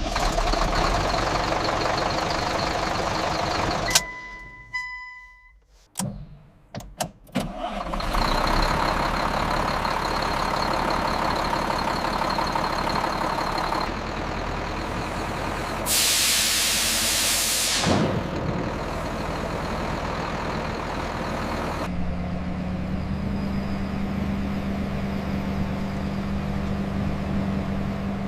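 Restored dumper truck's diesel engine running, heard in several edited clips with a few brief knocks between them. About halfway there is a loud hiss of air lasting about two seconds, and near the end the engine settles to a steady hum.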